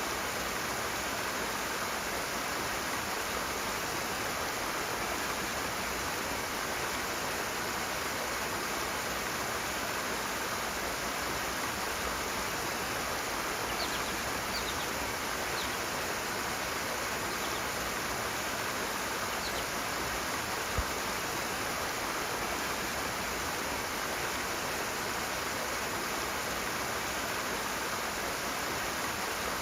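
Rushing water, a steady even rush with no let-up. A single brief low thump comes about two-thirds of the way through.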